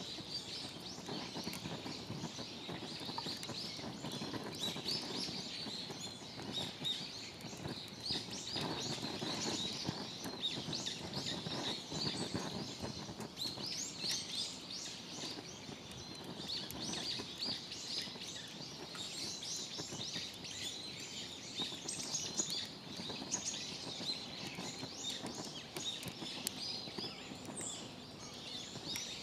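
Small birds chirping again and again over a steady outdoor background noise.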